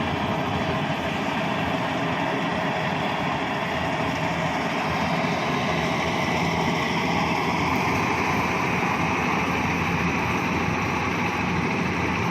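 Bimo Maxxi 102 combine harvester running steadily, its engine and harvesting machinery going continuously.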